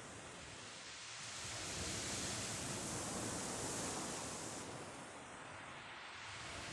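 Sea surf washing on the shore, a wave building about a second and a half in and ebbing away after about four seconds.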